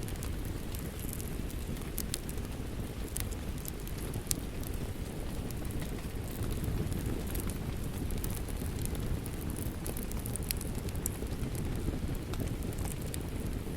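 Wood fire crackling with scattered sharp pops and snaps, over a steady low rush of rain.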